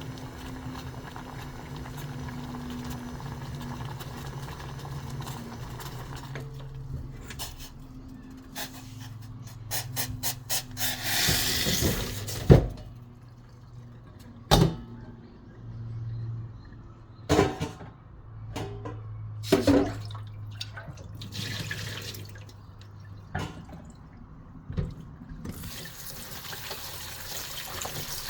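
Kitchen water sounds, with running or pouring water at a sink. Several sharp knocks and clinks of utensils or dishes come over a steady low hum.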